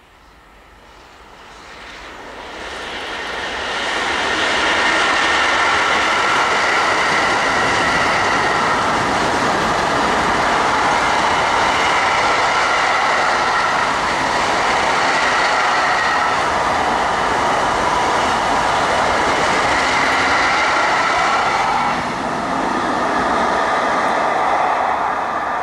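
Freight train of tank wagons rolling past: the noise of steel wheels on the rails swells over the first four seconds, then holds steady and loud, with steady high-pitched wheel squeal over it. The sound eases a little about 22 seconds in as the end of the train goes by.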